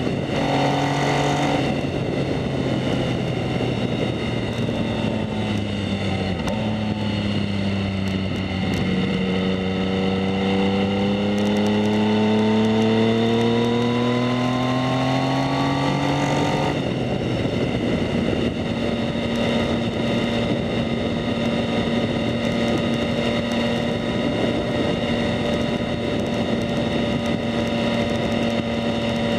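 A 2019 Yamaha MT-09's 847 cc three-cylinder engine running through a Two Brothers S1R full exhaust while the bike is ridden. The engine note dips twice, then climbs steadily under throttle for about eight seconds. It drops sharply about 17 seconds in and holds at a steady cruising pitch for the rest.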